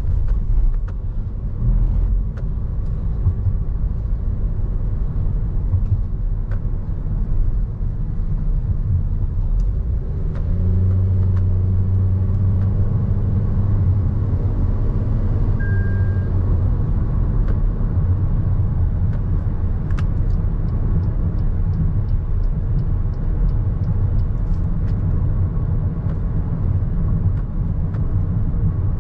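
Cabin noise of a Toyota Innova Hycross on the move: a steady low rumble of road and tyres. About ten seconds in, a steady-pitched hum joins it for several seconds and then fades, and a run of faint, evenly spaced ticks comes through later on.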